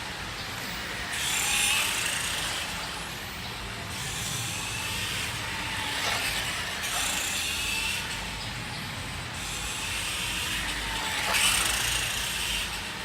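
Nikko 1:5 RC Ducati motorcycle's electric motor and geared transmission whining as it runs, the pitch gliding up and down with throttle, louder about two seconds in and again near the end.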